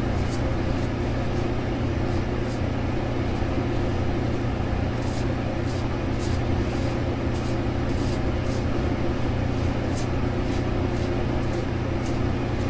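Short scratchy strokes of a brass safety razor scraping across stubble, coming irregularly about once a second, over a steady low hum.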